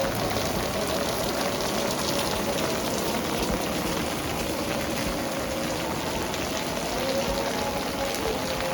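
Heavy rain falling steadily, a dense patter of drops on hard surfaces, with a faint steady hum underneath.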